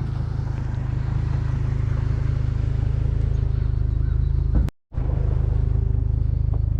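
Pickup truck engine running with a steady low rumble, cut by a split-second gap of silence about two-thirds of the way through.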